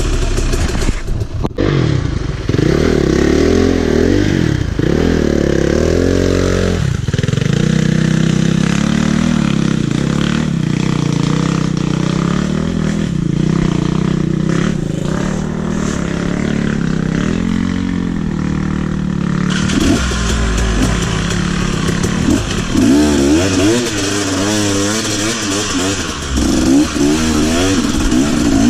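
Motorcycle engine running under varying throttle, its revs rising and falling repeatedly, with quicker up-and-down rev swings for a few seconds near the start and again near the end.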